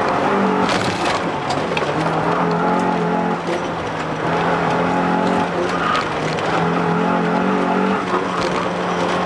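A Honda car's engine heard from inside the cabin, its revs rising and falling as it is driven fast through a slalom of cones.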